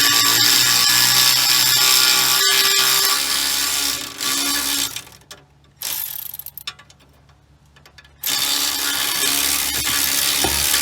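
Power tool spinning a socket to run a loosened nut off a front sway bar end link: a steady motor whine for about four seconds, two short bursts, a pause, then running again near the end.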